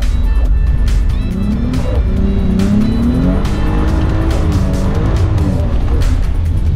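Toyota Chaser JZX100's turbocharged 1JZ straight-six heard from inside the cabin, revving up and down repeatedly as it is driven hard on a wet track. Background music plays over it.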